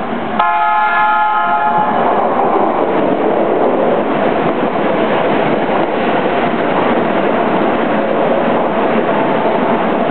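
Keikyu electric train sounds a short horn blast, several tones at once lasting about a second and a half, as it comes into the station. It then runs past close by with loud, steady running noise from its wheels and motors.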